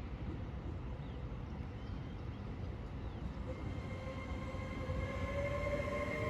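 A train approaching through the station: over a steady low rumble, a whine starts about halfway through, rising slowly in pitch and growing louder.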